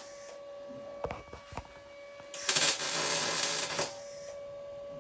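Sheet steel being handled and fitted: two light knocks, then a harsh scraping hiss about a second and a half long, over a steady hum.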